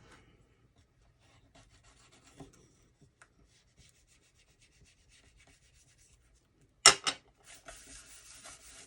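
Paper card stock being rubbed and smoothed by hand, faint scratchy rustles, as a glued paper band is pressed down. About seven seconds in come two sharp knocks, the loudest sounds, followed by a steadier rubbing.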